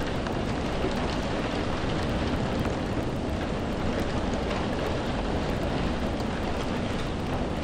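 Steady rain falling: an even, unbroken wash of noise with a deep low rumble beneath it.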